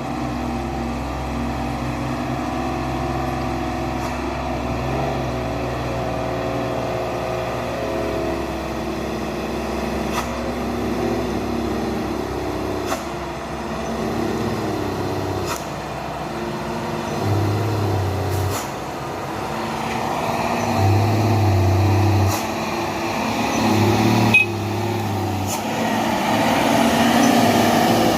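Heavy dump truck loaded with stone driving past, its engine running steadily and swelling louder several times in the second half as it works. A few short sharp clicks are heard.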